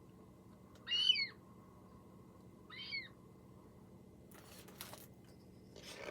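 Two short, harsh calls of an ivory gull, each sliding down in pitch, played from a recording, followed by a brief rustle of handling.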